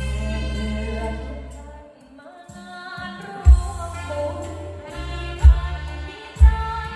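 A song with a singing voice over deep bass, played loud through a large PA sound system. The bass drops out briefly about two seconds in, then heavy bass hits come back every second or two.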